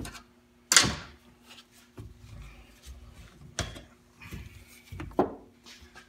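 Metal transmission parts knocking and clunking on the workbench as they are handled and set down: one sharp knock a little under a second in, two more around three and a half and five seconds, with lighter clicks between.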